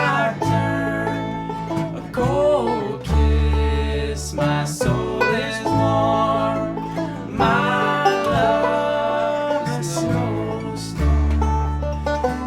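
A banjo, guitar and bass playing a country-style tune, with a steady bass line under the plucked banjo and guitar.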